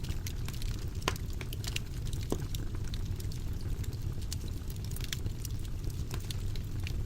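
Wood fire burning in a fireplace: a steady low rumble of flames with frequent small sharp crackles and pops scattered throughout.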